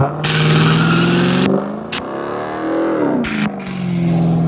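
Car engine held at high revs, its note steady apart from a dip in pitch and a swing back up in the middle, under a loud rushing noise that comes and goes.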